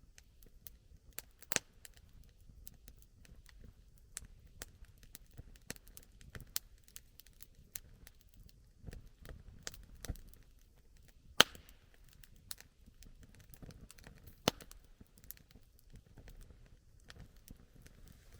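Campfire crackling: burning wood gives off irregular sharp snaps and pops over a faint low rumble. Louder pops come about a second and a half in, around eleven seconds in and around fourteen seconds in.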